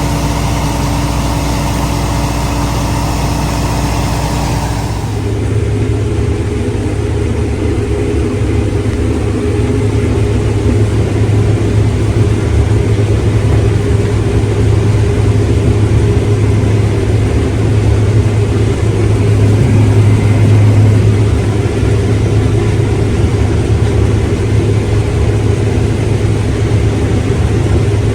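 Heavy diesel engine of farm harvest machinery running steadily under load. About five seconds in the sound changes abruptly to a louder, lower steady hum.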